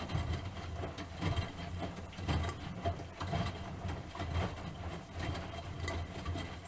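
Miele Softtronic W3923 washing machine with its drum turning: a steady low motor hum with irregular knocks and swishes on top, which drops away suddenly at the end as the drum stops.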